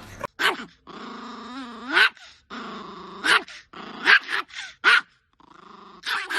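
Small Chihuahua growling in a run of pitched growls, each ending in a short sharp yap, about six yaps in all.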